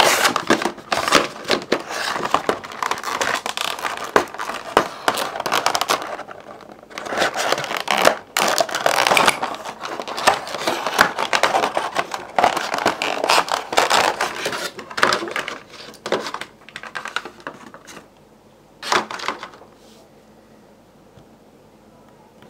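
Rustling, crinkling and scraping of packaging, with small clicks and knocks, as a boxed 1:400 diecast model airliner is opened and unwrapped by hand. The handling dies down about seventeen seconds in, with one more short rustle a couple of seconds later.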